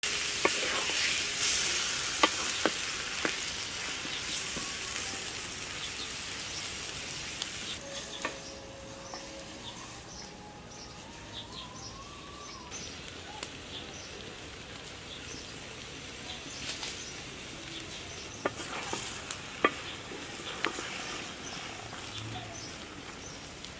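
Tomato and eggplant curry sizzling as it fries in a metal karahi, stirred with a wooden spatula that scrapes and clicks against the pan now and then. The sizzle is loudest in the first few seconds, then settles to a steady hiss.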